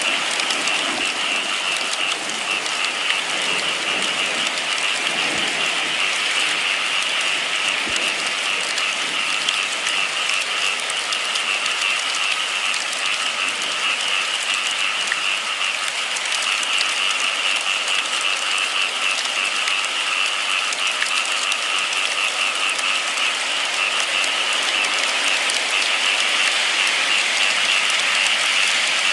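Steady rain falling: an even, unbroken hiss of many drops with fine pattering.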